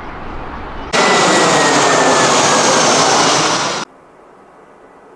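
Jet airliner engines, loud, with a high whine that slowly falls in pitch; the sound starts abruptly about a second in and cuts off near four seconds, leaving a faint steady rumble.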